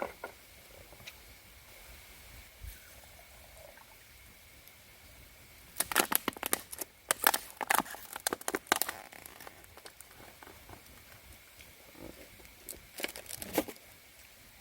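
Crinkling and rustling of something being handled, in a dense spell of sharp crackles for about three seconds in the middle and a shorter spell near the end.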